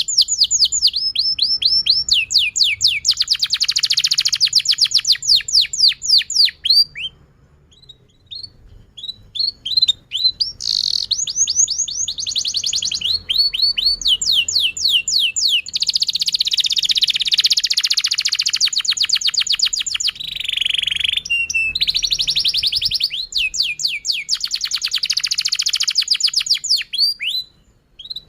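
Domestic canary singing a long trilled song: fast rolls of repeated down-sweeping notes. After about seven seconds it breaks off into a few scattered single chirps, then takes up the trills again.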